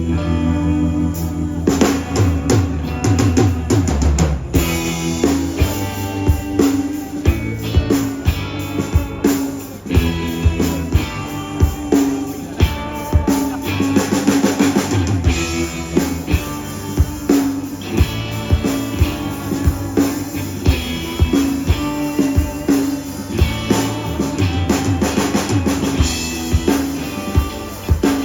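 Live blues-rock band playing an instrumental passage: a drum kit keeping a steady beat with bass drum and snare, under guitar and a sustained bass line.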